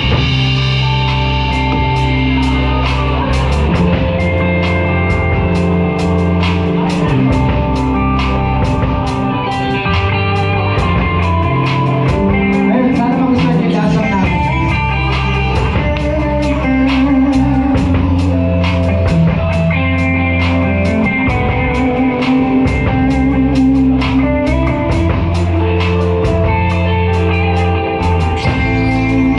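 Live rock band playing: guitar and bass over a drum kit keeping a steady beat.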